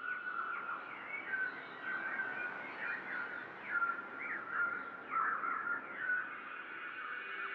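Small songbirds chirping, many short quick calls overlapping in a steady twitter.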